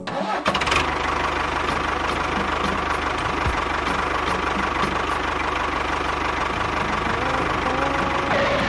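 Small engine, likely the DIY mini tractor's, running steadily at idle with a fast chugging beat and a steady whine, starting about half a second in.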